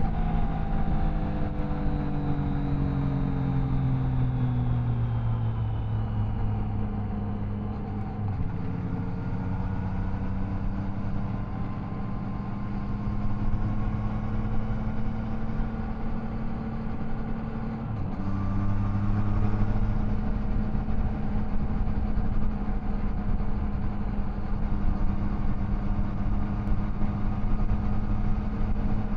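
Triumph Tiger Sport 660's three-cylinder engine under way. The revs fall over the first few seconds as the bike slows, then it runs at steady, slowly rising revs. There is a brief break in the engine note about eighteen seconds in, after which it runs a little louder.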